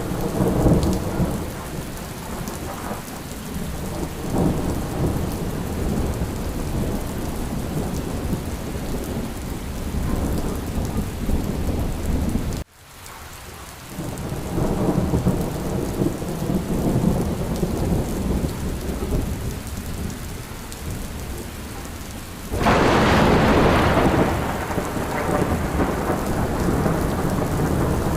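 Steady rain with rolling thunder rumbling through it. Near the middle the sound briefly almost cuts out and fades back in. About three-quarters of the way through, a louder, sharper thunderclap breaks and rumbles away.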